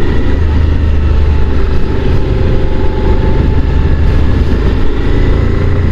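Honda NC750 DCT motorcycle under way at a steady pace: the parallel-twin engine runs evenly under a loud, constant low rumble.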